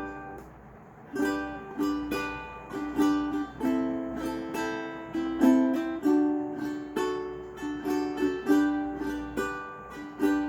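aNueNue tenor ukulele strummed in a steady rhythm as an instrumental intro. A chord rings out and dies away at the start, then the strumming picks up about a second in, with a stroke every half second or so.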